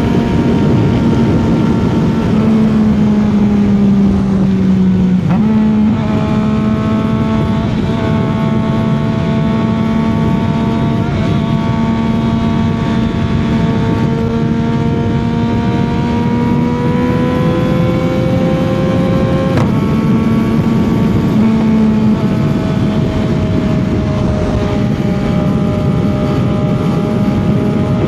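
CFMOTO 675's inline three-cylinder engine running at highway speed, heard from the bike with wind and road rush beneath. The engine note holds steady with a slow rise in pitch, and shifts sharply about five seconds in and again near twenty seconds.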